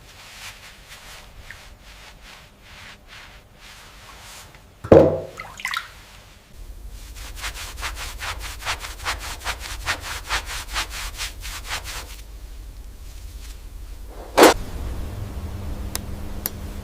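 Silverware being rubbed and polished by hand: fast, even scrubbing strokes, about four or five a second at the busiest, with a sharp knock about five seconds in and another near the end.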